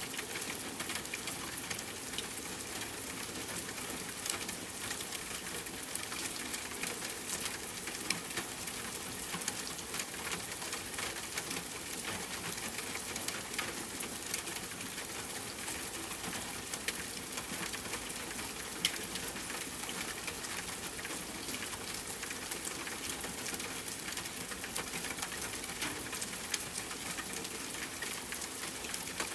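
Steady rain, a continuous hiss thick with the sharp ticks of individual drops striking a surface, with one louder drop hit about two-thirds of the way through.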